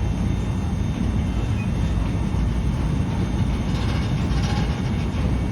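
Chichibu Railway electric train giving a steady low rumble.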